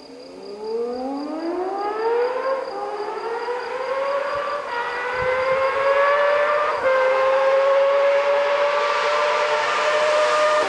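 Honda CBX's inline-six engine accelerating hard. Its wailing exhaust note climbs quickly in pitch over the first few seconds, breaks briefly three times, then holds high and steady while edging slowly upward.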